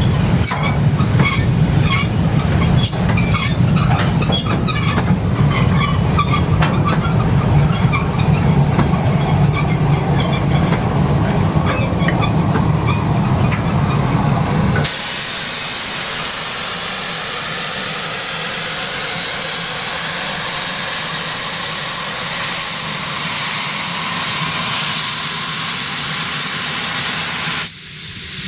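A steam train running past on rails, with a heavy low rumble and many metallic clanks and squeaks from wheels and couplings. About halfway through this gives way abruptly to a steady, loud hiss of escaping steam from a steam locomotive.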